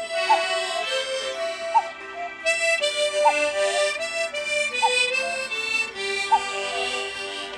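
Harmonica playing a melody with several notes sounding together, the notes changing about every half second. A short rising chirp recurs about every second and a half.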